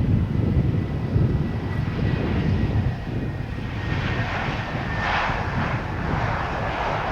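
Jet airliner's engines on approach passing the runway: a heavy low rumble, with a faint whine that slowly falls in pitch as it goes by and the rumble easing after about three seconds.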